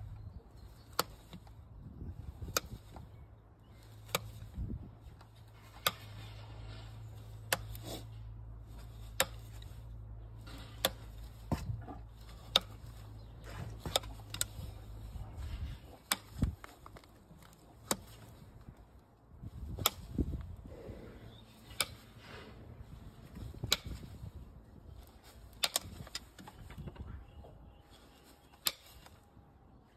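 Hoof trimming tools working on a Shire horse's hoof: a string of sharp clicks and cuts, roughly one a second, with scraping between them. A low hum runs underneath and stops about halfway.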